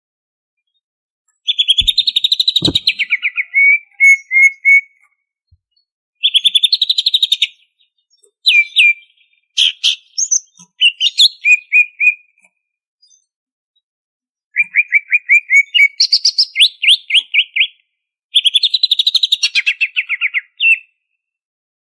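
Cucak ijo (green leafbird) singing in fast trilled phrases of rapidly repeated notes, in several bursts a second or more long with short pauses between them.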